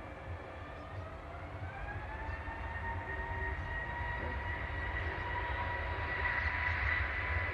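Jet engines of an Airbus A320neo (CFM LEAP-1A) running with a low rumble and a whine. The whine rises in pitch over the first couple of seconds, then holds steady while the sound grows louder.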